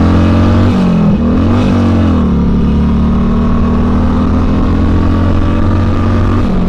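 Harley-Davidson Sportster Seventy-Two's air-cooled V-twin running under way. The engine note dips and climbs back about a second in, then holds steady and drops again near the end, as the throttle and revs change.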